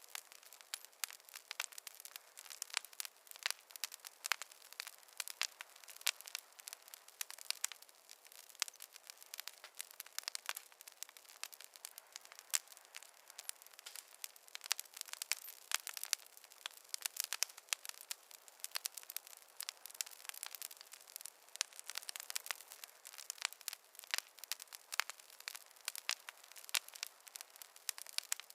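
Wood fire crackling, a steady run of irregular sharp snaps and pops.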